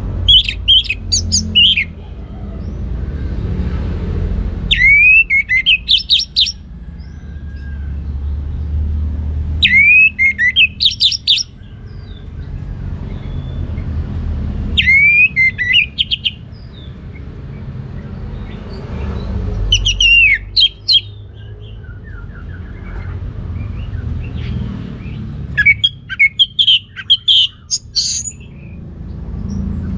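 Orange-headed thrush singing in full song: a phrase about every five seconds, each a slurred whistle followed by a quick jumble of higher notes, over a low rumble.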